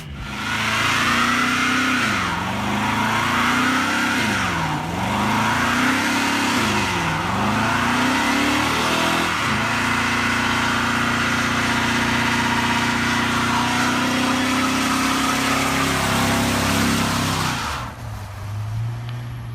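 1968 Chevy C10's 5.3-litre LS V8 with an LS6 cam revving hard during a burnout. The revs dip and climb three times, then hold high and steady for about eight seconds before dropping back near the end.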